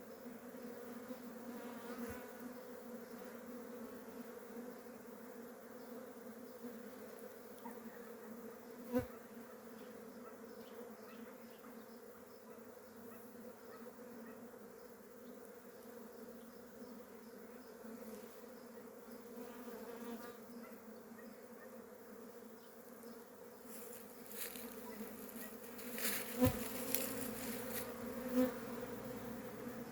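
Swarm of Korean native honeybees (Asian honeybees) buzzing in a steady drone during natural swarming. A sharp knock comes about nine seconds in, and the sound grows busier near the end with another knock.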